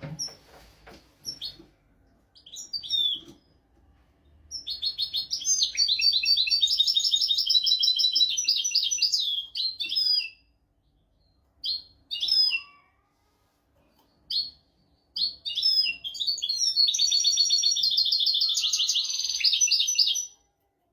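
European goldfinch singing: a few short chirps, then a long phrase of rapid, twittering trills lasting about five seconds. Scattered single calls follow, then a second long trilled phrase near the end.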